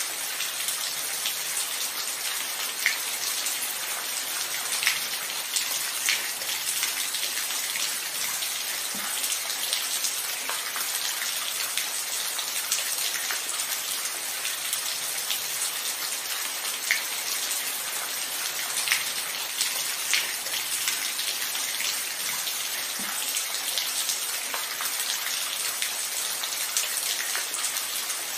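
Steady rain falling: a dense, even hiss with scattered louder single drops ticking through it.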